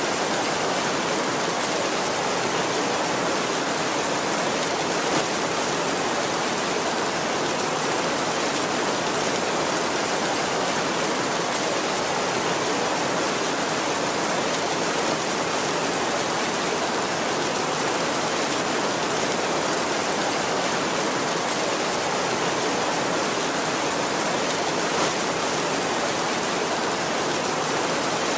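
Heavy rain falling steadily on a tin roof: an even, unbroken hiss with no thunder in it.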